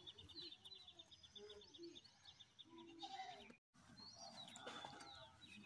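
Faint birdsong: a fast, even trill of high notes over the first two seconds, then scattered chirps. The sound drops out completely for a moment midway.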